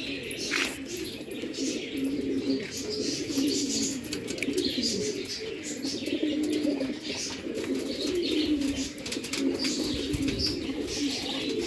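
Pigeons cooing continuously in low warbling phrases, with small birds' chirps and tweets scattered over the top.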